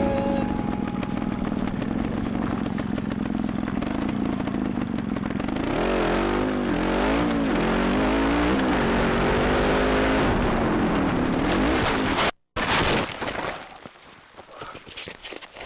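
Montesa trials motorcycle engine running under way over rough dirt, the revs rising and falling repeatedly in the middle stretch. The engine sound cuts off suddenly about twelve seconds in, leaving only faint, uneven noise.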